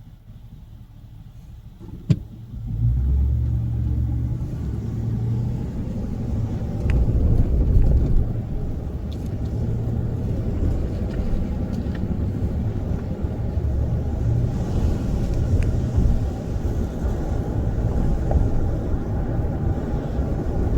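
Thunder: a sharp crack about two seconds in, then a long, low rolling rumble that swells and fades unevenly, with a few faint ticks above it.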